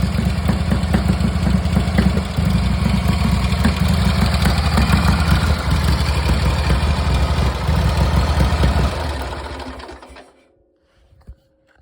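Indian 741B's side-valve V-twin engine running at idle while warming up after a cold start in freezing weather, then switched off about nine seconds in, the sound dying away over about a second. A faint steady tone and a few light clicks follow.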